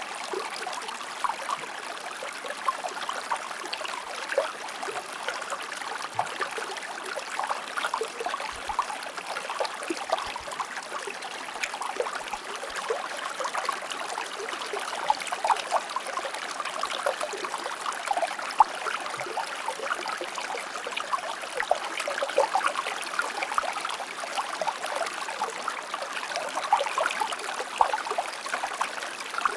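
Shallow river or stream flowing: a steady babble of water with many small splashes and trickles, and no deep rumble.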